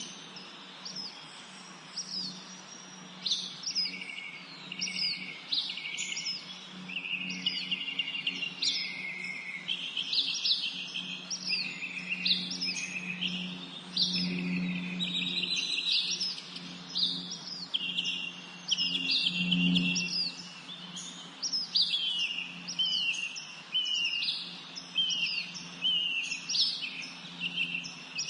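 Songbirds singing and chirping in a dense chorus of short, quick, repeated notes, many of them falling in pitch. A steady low hum runs underneath and swells briefly twice, about halfway through and again a few seconds later.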